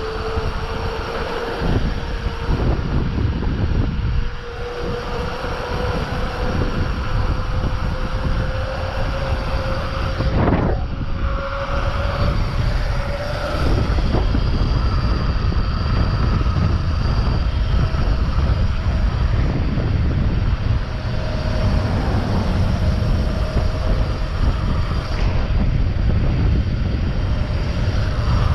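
Wind rushing over the microphone and mountain-bike tyres rolling over a dirt trail during a descent, with occasional sharp knocks from the bike over rough ground.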